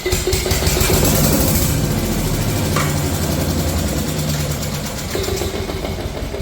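Small gasoline engine of an Earthquake chipper shredder firing and running briefly, then winding down toward the end; the owner takes it as a sign the carburetor is not working.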